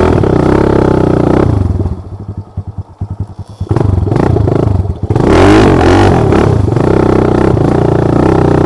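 Motorcycle engine revved hard, easing to a low idle for a couple of seconds, then revved up again with rising and falling pitch, as the bike fails to make headway through deep water and mud.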